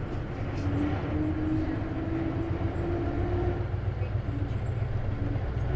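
Cabin sound of an Isuzu KC-LV380N manual-transmission diesel city bus under way: a steady engine drone, with a thin whine that rises slightly from about half a second in and fades out about three seconds later. This bus is known for an abnormal noise, which the owner suspects can come with a manual transmission.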